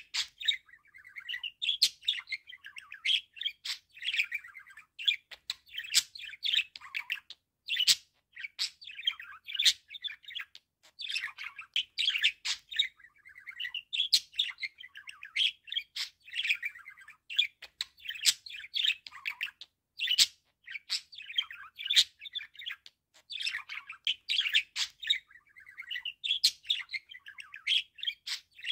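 Budgerigar warbling and chattering without pause, a busy run of chirps and warbles punctuated by sharp clicks.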